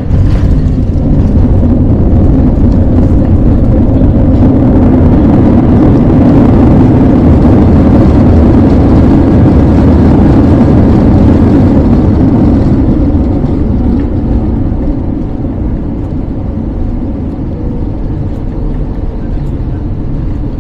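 Loud roar of an Airbus A321's IAE V2500 jet engines and rushing air heard inside the cabin on the landing rollout. It swells over the first few seconds, holds at its loudest, then dies away about two-thirds of the way through as reverse thrust ends and the jet slows.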